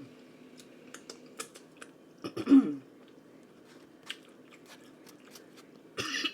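Close-up chewing and crunching of tortilla-chip nachos, with sharp crackling crunches scattered through. About two and a half seconds in there is a loud short voiced sound with falling pitch, and another short noisy vocal sound just before the end.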